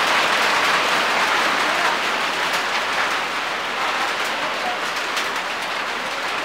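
Rain falling steadily: an even hiss with scattered drop ticks, easing slightly toward the end.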